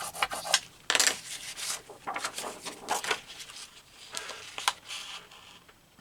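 Paper and small craft supplies being handled on a worktable: a busy run of rustling, scraping and small clicks that thins out and goes quiet about five seconds in.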